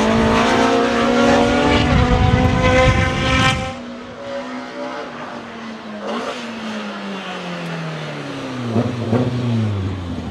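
BMW M3 E30 DTM race car's four-cylinder engine at high, steady revs, loud, then dropping off sharply a little under four seconds in. After that it is quieter, the revs sliding down with a few short blips near the end.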